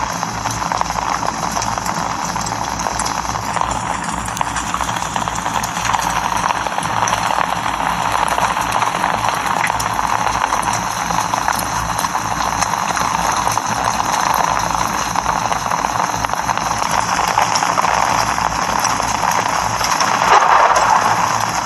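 Steady rain falling, a dense even hiss of countless small drop impacts, swelling slightly near the end.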